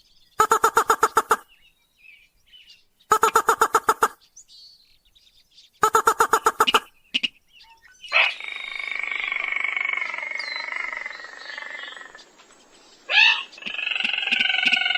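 Rails and crakes calling, on a bird-lure recording. Three bursts of rapid, evenly repeated notes, each about a second long, are followed about eight seconds in by a longer, denser run of calls with falling notes. A sharp rising note comes near the end, then another such run.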